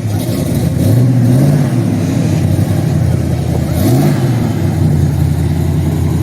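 A car engine idling and revved twice: a longer blip about a second in, then a quick one near four seconds, each time settling back to a steady idle.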